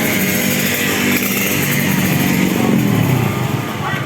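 Small-capacity 125cc racing motorcycle engines running at high revs, their pitch dropping about three seconds in.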